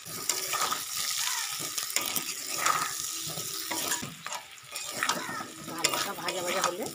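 Parboiled potato chunks sizzling in hot oil in a steel kadai, with a metal spatula repeatedly stirring and scraping against the pan.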